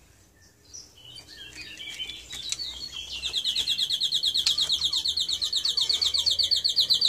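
A bird trilling: some soft scattered chirps, then from about three seconds in a loud, fast, even run of high chirps that keeps going.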